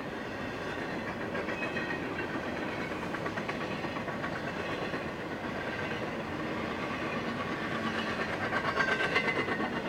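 Yellow double-stack intermodal well cars of a Norfolk Southern freight train rolling past, wheels clicking steadily over the rail joints. The clatter grows louder near the end.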